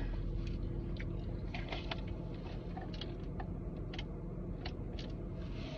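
Steady low hum of a parked car idling, heard from inside the cabin, with scattered light clicks and taps of things being handled.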